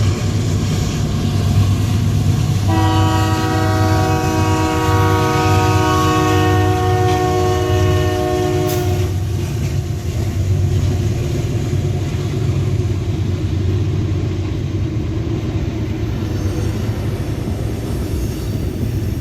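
Locomotive air horn sounding one long chord of several tones for about six seconds, over the steady low rumble of the train's diesel engines.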